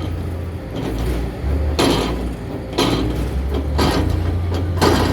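Backhoe excavator's engine running with a steady low rumble, with a short clank or scrape about once a second from the working machine.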